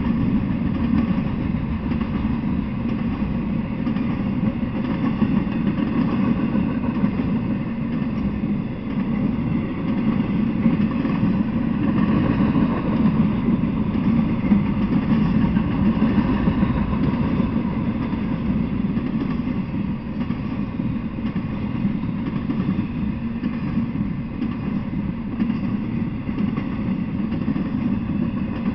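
Intermodal freight train cars carrying containers and highway trailers rolling past, a steady low rumble of wheels on the rails.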